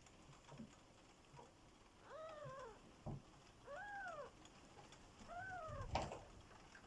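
Six-day-old kitten mewing three times, each thin cry rising and then falling in pitch. A soft knock comes about three seconds in, and a louder thump near the end.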